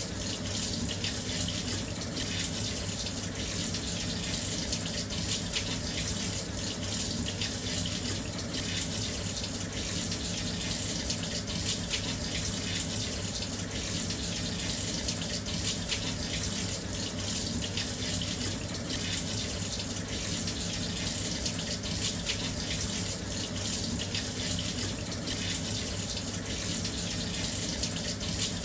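Washing machine filling with water: a steady, continuous rush of water pouring in through the inlet.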